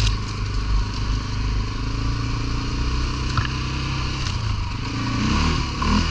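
ATV engine running steadily under way, with a few knocks and rattles from the machine, its revs rising near the end.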